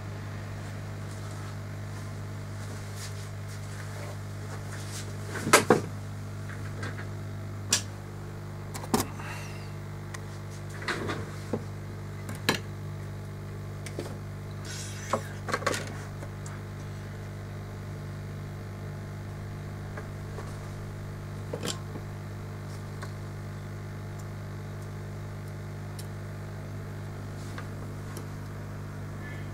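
Steady low electrical hum with a dozen or so small, sharp clicks and taps scattered through the first two-thirds. These fit tools and parts being handled on an electronics repair bench.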